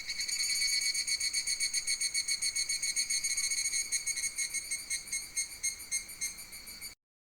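A cicada singing: a rapid pulsing buzz at a steady pitch that starts loud, gradually fades, and cuts off abruptly near the end.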